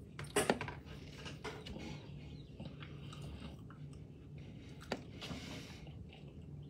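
Close-miked eating sounds: chewing and mouth smacks. A sharp click comes about half a second in and another near five seconds.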